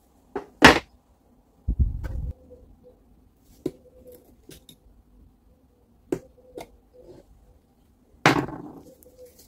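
Sharp knocks and clicks of tools and metal parts being handled during work on a Fein angle grinder. A loud knock comes just under a second in, a short low rumble around two seconds, then scattered lighter clicks, and a final knock near the end that rings briefly.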